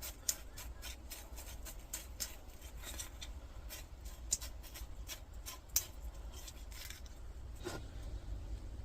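Fine copper wire being pulled and unravelled by hand from the coil of a small electricity-meter motor: a run of soft, irregular crinkling and ticking with a few sharper clicks.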